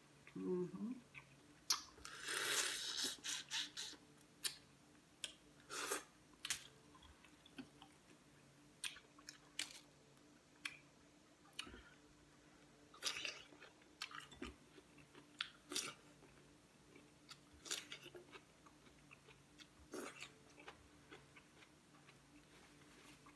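Close-miked wet chewing and lip-smacking of seafood-boil leftovers (shrimp, crawfish and cucumber dipped in butter sauce), with scattered short smacks and clicks. About two seconds in, a denser stretch of crunching lasts a couple of seconds.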